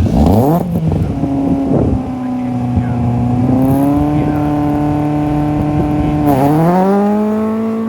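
Rally car launching from the start line: the engine revs climb steeply, then hold steady as it pulls away. About six seconds in the pitch dips and climbs again at a gear change.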